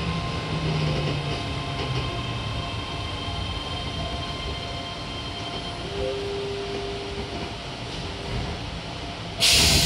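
Keio 7000 series train's Hitachi IGBT inverter whining as the train brakes into the station, its tones falling in pitch over the running rumble. Near the end a sudden loud burst of compressed-air hiss as the train comes to a stop.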